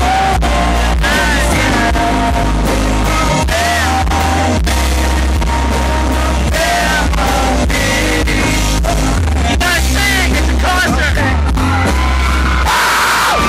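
Live country band playing loud through a concert sound system, with a male lead singer, heavy bass and regular drum hits.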